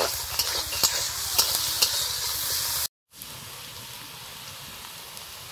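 Sliced onions, dried red chillies and panch phoron frying in mustard oil in a metal karai, sizzling. A metal spatula scrapes and taps the pan in quick clicks for the first few seconds. After a brief break the sizzle goes on more quietly and evenly, without stirring.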